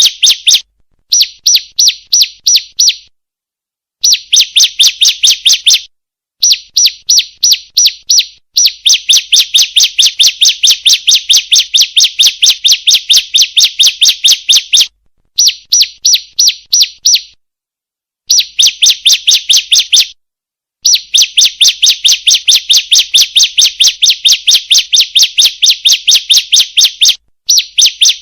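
Female ciblek (bar-winged prinia) calling: a rapid series of sharp, high chirps, about four or five a second, in runs of one to several seconds broken by short pauses.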